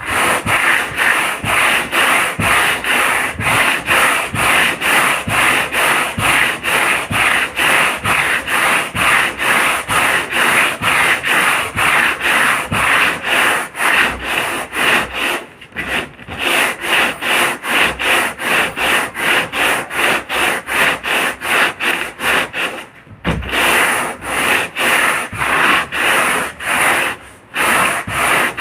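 Hand sanding a boat hull, abrasive rubbed back and forth in a steady rhythm of about two strokes a second, pausing briefly three times.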